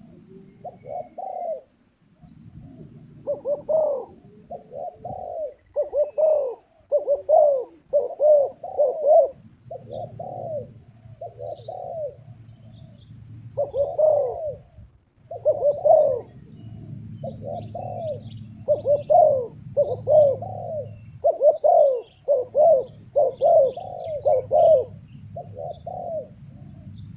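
Spotted dove cooing: repeated short, rounded coo notes in phrases, one after another throughout.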